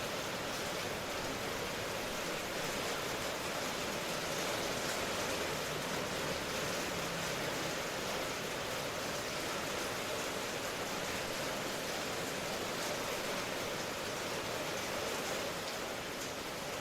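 Steady rain, heard as an even hiss that does not change in level or character.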